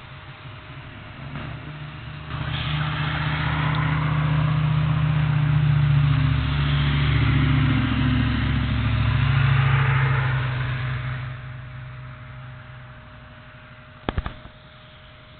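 A motor vehicle drives past, its engine and tyre noise swelling for several seconds and then fading away. A brief double knock comes near the end.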